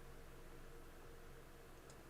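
Near silence: a faint steady electrical hum, with a single faint computer-mouse click near the end.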